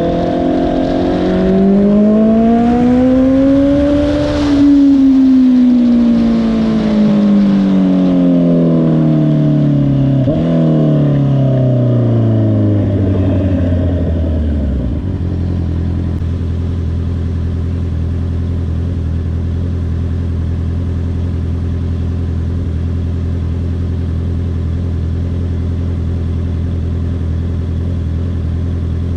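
2022 Honda CBR650R's inline-four engine pulling up through the revs for a few seconds, then falling off as the bike slows, with a brief blip about ten seconds in. It settles to a steady idle about fifteen seconds in.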